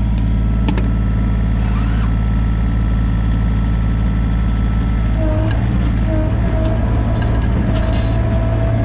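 A diesel engine running steadily at idle. About halfway through, a higher whine comes and goes over it.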